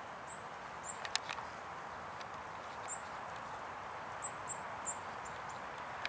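Outdoor ambience: a steady background hiss with several short, very high chirps of small birds scattered through it, and a few sharp clicks about a second in.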